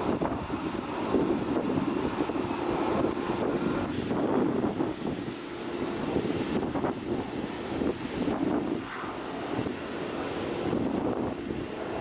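Jet aircraft running on the airport apron: a steady rumble with a thin high whine above it.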